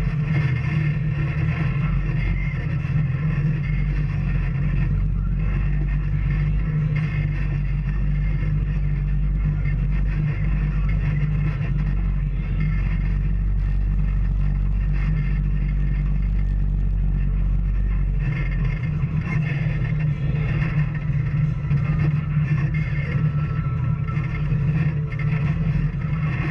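Off-road vehicle's engine running steadily on a trail ride, a constant low drone that turns more uneven about two-thirds of the way through.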